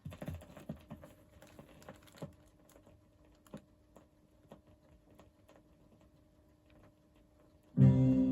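Crackle and scattered clicks from a 45 rpm vinyl single's lead-in groove, over a faint steady hum. Near the end the rock steady record's music starts, loud and sudden.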